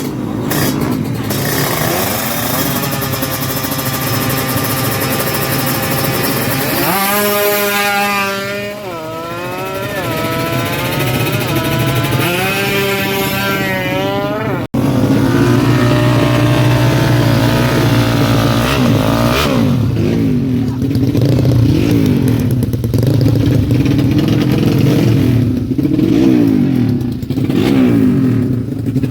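Honda Karisma's single-cylinder four-stroke motorcycle engine running, its pitch climbing and dropping several times as it is revved or taken up through the gears. There is an abrupt break about halfway, after which the engine sounds louder and wavers up and down.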